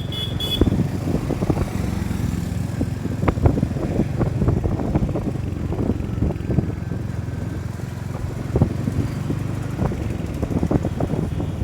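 Motorcycle engine running steadily on the move, with a vehicle horn sounding briefly at the very start.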